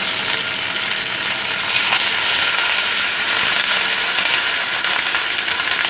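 Chopped garlic, ginger and curry leaves sizzling steadily in hot oil in a kadai, being lightly fried.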